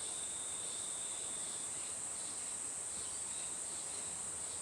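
Insects chirring in a steady, high-pitched chorus, with a second, lower note that fades out about two seconds in.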